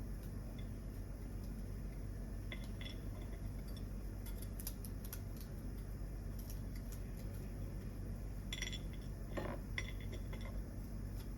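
Scattered light clinks and taps of kitchen utensils against dishes, a few at a time, with the most distinct ones a little past two-thirds of the way through, over a steady low background hum.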